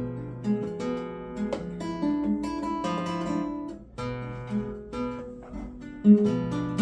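Acoustic guitar being played: a run of picked notes and strummed chords, with strong chord strikes about four and six seconds in. It is played as a check on hand tremor after a stimulator adjustment.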